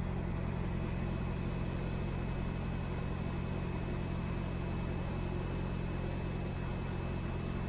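Steady drone of a Cessna 172R's four-cylinder Lycoming engine and propeller heard in the cabin, throttled back to descend.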